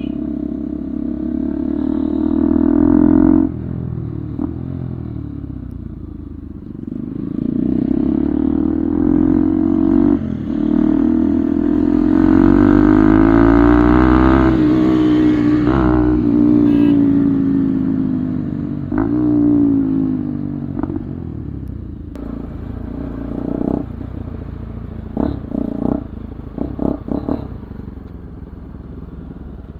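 Single-cylinder Bajaj Pulsar 200 engine through an Akrapovič full-system exhaust, riding: its pitch climbs as it accelerates and drops at each gear change, several times over. It then settles lower, with a run of short sharp bursts near the end.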